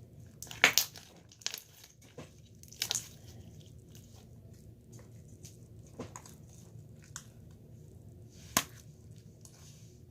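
Scattered sharp crackles and clicks, a handful of separate ones with the loudest about a second in and another near the end, over a low steady hum.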